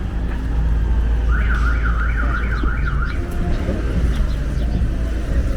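Car alarm sounding a warbling tone, its pitch swinging up and down about three times a second for roughly two seconds before stopping, over a steady low rumble of city street noise.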